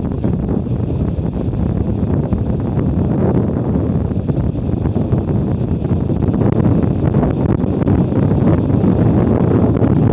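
Steady wind rush buffeting the microphone of a camera mounted on a moving BMW R100RT motorcycle, with the bike's flat-twin engine running underneath.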